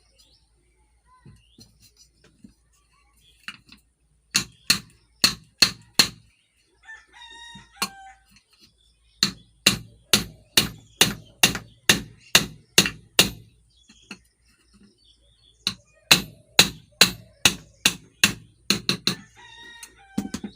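Hammer tapping the upper cover of a ceiling fan down onto its 6201 ball bearing: three runs of sharp metallic strikes, about two a second, with short pauses between. A rooster crows in the background.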